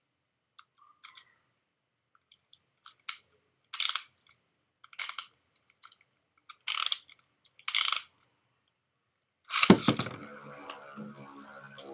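Beyblade spinning tops being readied in their launchers, with a few light clicks and four short ratcheting zips. About ten seconds in comes a loud plastic clack as the tops are launched, then a steady whirring hum with some rattling as they spin in the stadium.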